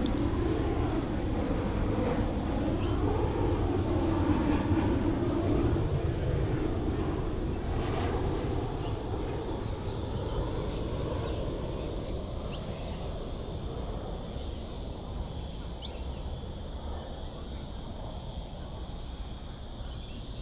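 Distant engine rumble of a passing vehicle or aircraft, loudest in the first few seconds, its pitch slowly bending, then fading away. Steady high-pitched insect chirring comes through from about halfway.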